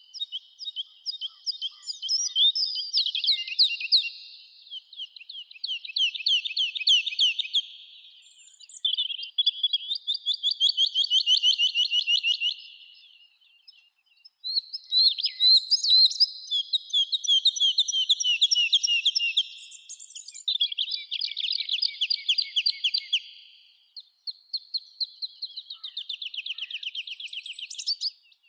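Songbirds singing: about seven trilled phrases of rapid repeated notes, each lasting a few seconds, with short pauses between them.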